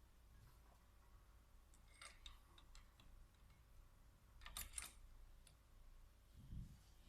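Near silence, with faint clicks of small parts and tools being handled during injection pump reassembly: a few clicks about two seconds in, a louder cluster of clicks near five seconds, and a soft low thump near the end.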